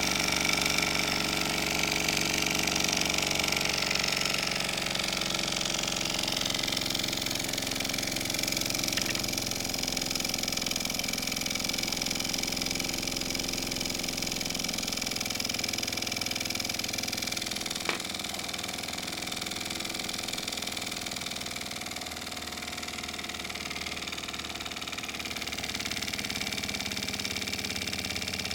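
Mamod SP6 miniature stationary steam engine with a double-acting cylinder, idling steadily on a gas burner turned down low. A single sharp click sounds about two-thirds of the way through.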